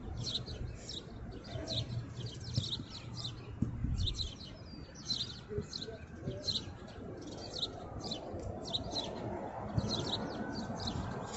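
Birds chirping, short high chirps repeating a few times a second, over a low steady rumble, with a few soft thumps.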